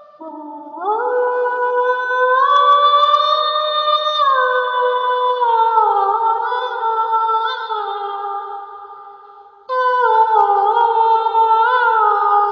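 Wordless a cappella vocalizing: long held notes that slide smoothly from one pitch to the next. The line fades out after about nine seconds, and a new phrase starts abruptly near the end.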